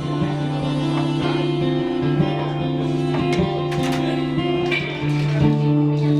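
Live guitar music: an instrumental opening of held chords with picked notes.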